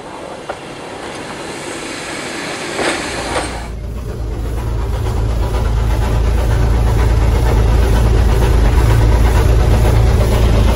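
Train running: a noisy rush that gives way, about four seconds in, to a heavy low rumble growing steadily louder.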